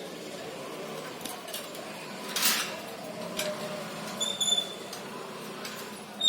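Pet parrot giving short, high whistled chirps: a couple close together about four seconds in and another right at the end. Scattered small clicks and one short, loud noisy burst about two and a half seconds in.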